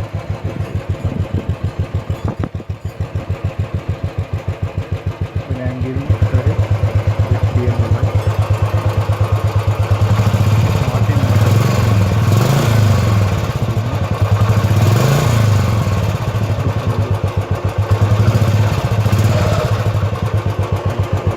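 Royal Enfield Classic 350 Signals' single-cylinder engine running through its exhaust: an even, low thumping idle that gets louder about six seconds in, then the throttle is blipped a few times, the pitch rising and falling each time.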